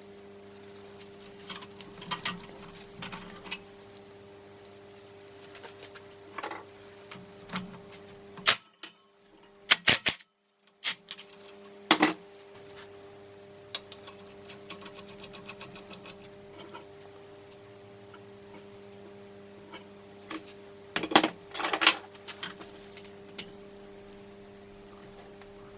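Metal tools and engine parts clinking and knocking at a workbench, with a rapid run of ratchet clicks in the middle, over a steady electrical hum. The sound drops out briefly about a third of the way in.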